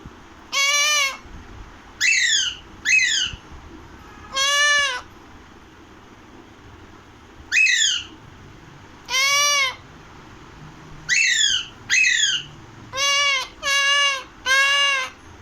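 Alexandrine parakeet (pahadi tota) giving loud, harsh screeching calls, about eleven in all: some drawn-out arched screeches and some short squawks that slide down in pitch, coming faster near the end.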